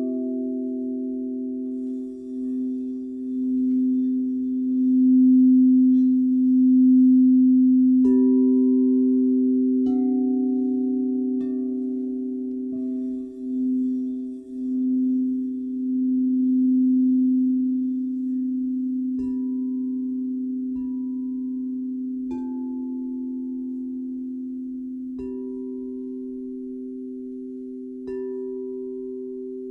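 Crystal singing bowls ringing. A low bowl holds a steady hum that swells and fades in slow pulses, while other bowls are struck every few seconds, each strike adding a fresh pure ringing tone above it.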